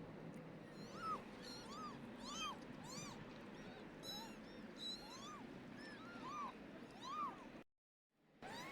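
Kittens mewing over and over in short, rising-and-falling cries, several to the second at times, with higher chirps mixed in. The sound cuts out completely for a moment near the end.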